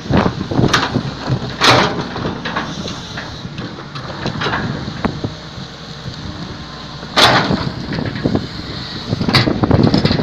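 Excavator at work: a low rumble with several sharp knocks, the loudest about seven seconds in and others near the start and near the end.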